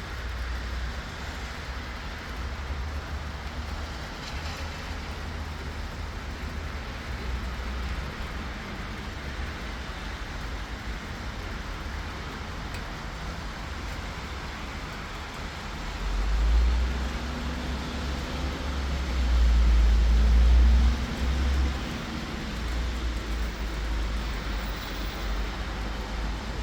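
Steady hiss of rain in a city street over a low traffic rumble; a vehicle passes louder about two thirds of the way through.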